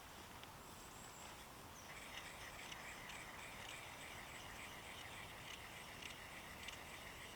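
Faint, rapid, continuous chirring of an insect such as a cricket or grasshopper, starting about two seconds in over quiet woodland background.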